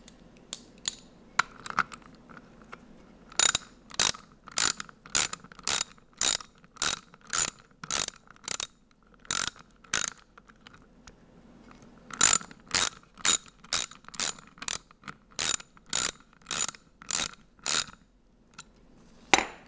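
Ratchet wrench clicking as a bolt is tightened, in two long runs of sharp, even clicks about two a second, with a short pause between them and a few stray clicks before.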